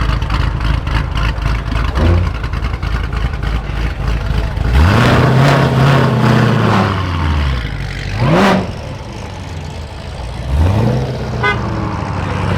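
Car engine idling hard and choppy, then revved: about five seconds in the pitch climbs, holds briefly and falls back, and two shorter, sharper revs follow near eight and ten and a half seconds.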